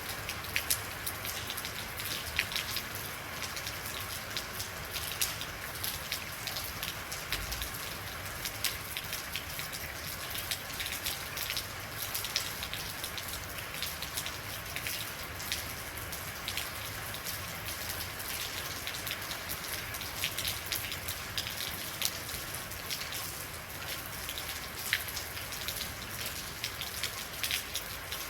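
Steady rain falling, with many individual raindrops ticking sharply on a surface.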